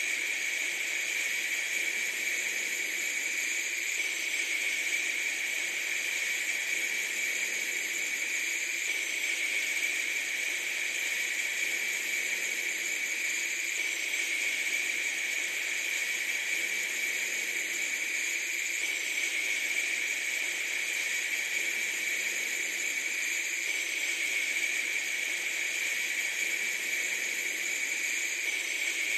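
A steady, unchanging hiss with no breaks or rhythm, strongest in a high band and with no low rumble.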